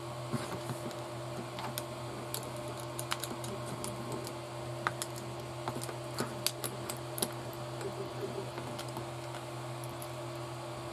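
Light, irregular clicks and taps of small plastic and metal RC car parts being handled as a drive shaft is fitted back in, thickest in the middle, over a steady low hum.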